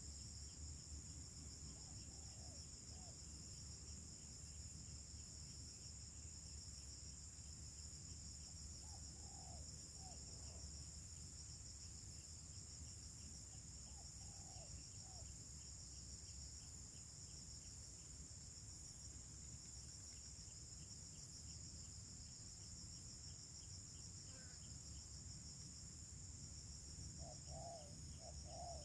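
Steady high-pitched insect chirring throughout, with short groups of low spotted dove coos every few seconds and a longer run of coos near the end.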